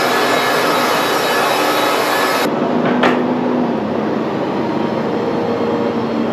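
Wood-Mizer portable bandsaw mill sawing through a log. The cutting noise stops abruptly about two and a half seconds in, leaving the mill's engine running. A single sharp knock follows about half a second later.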